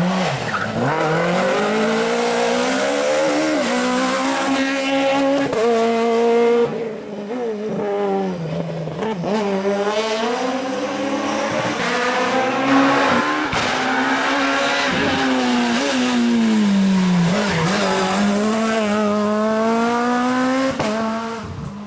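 Rally car engine revving hard, climbing in pitch and dropping at each gear change over and over as the car is driven flat out, with tyre squeal.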